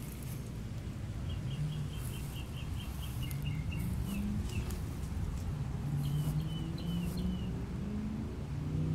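A small bird chirping outdoors: a quick run of short high notes, then after a pause a group of four slurred chirps, over a steady low background rumble.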